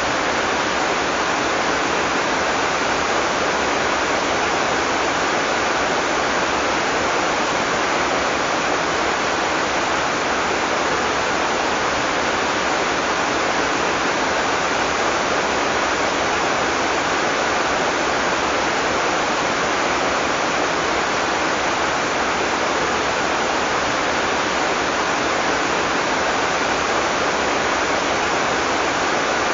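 Heavy tropical rain falling steadily, a constant dense hiss with no thunder or separate drops standing out.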